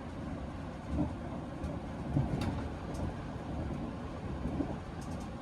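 Class 220 Voyager diesel multiple unit heard from inside the carriage while running: a steady low rumble with a few faint ticks.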